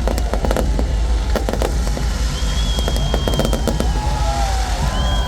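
Fireworks going off: a rapid run of crackles and pops over a steady deep rumble, with high held tones lasting about a second each in the second half.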